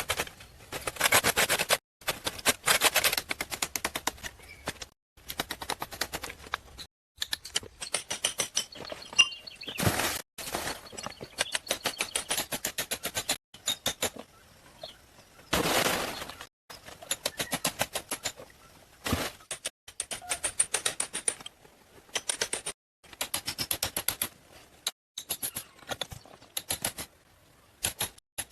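Runs of rapid clicking and knocking, broken into short stretches by sudden gaps.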